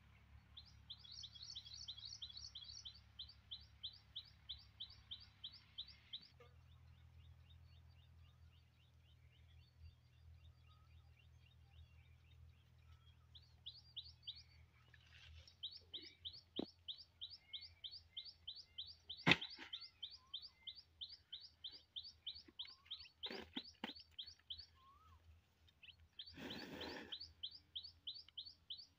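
A bird calling in a fast, steady series of high chirps, about five a second, with a faint low hum under it for the first half. A few sharp knocks cut through, the loudest about two-thirds of the way in, and there is a short rustle near the end.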